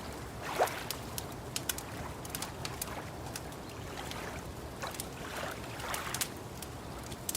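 Wood fire crackling with irregular sharp pops, over soft swells of lapping water.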